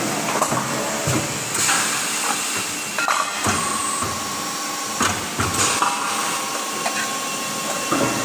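Metalworking machinery running in a workshop making kettle bodies, with irregular sharp metal knocks and clatter. A steady thin whine joins about four seconds in.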